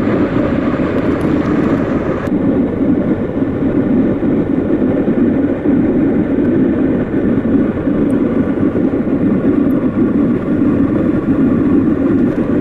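Aircraft cabin noise in flight: a steady, loud drone of engines and rushing air heard from inside the plane.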